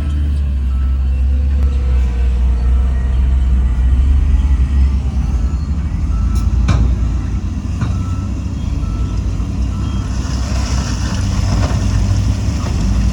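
Heavy diesel earthmoving machinery running with a deep, steady rumble while a reversing alarm beeps evenly, about once every second. About ten seconds in, a loud hiss rises over the engine.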